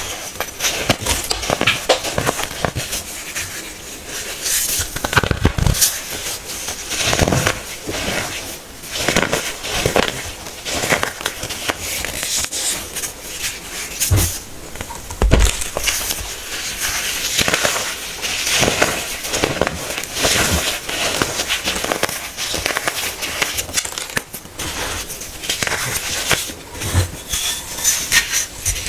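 Compressed baking soda being crushed: a dense, irregular run of dry crunching and crackling.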